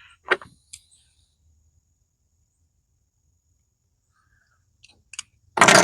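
Sharp clicks of metal hardware and tools being handled on a lawn tractor linkage, then a louder, longer clatter near the end.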